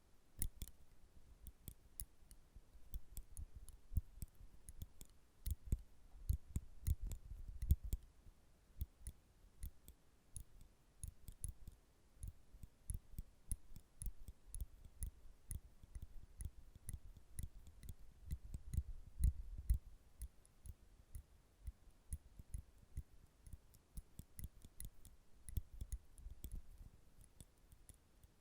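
Metal nail clippers clicking over and over, sharp snapping clicks in quick irregular runs, with soft low thuds from handling now and then.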